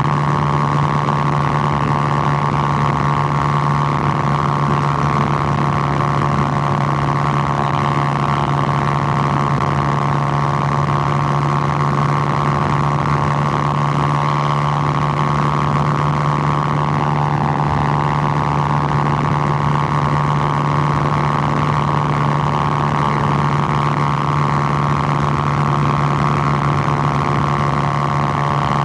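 Suzuki GN125's single-cylinder four-stroke engine running steadily at an even pitch, with a slight change in note about two-thirds of the way through.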